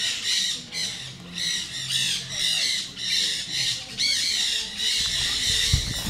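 Birds in a tree canopy squawking: a steady run of harsh, repeated, overlapping calls, a few a second, with a brief low rumble near the end.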